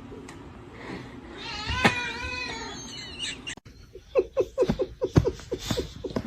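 A cat gives one drawn-out meow, then a rapid run of short, staccato cries, about six or seven a second, that sound like laughing.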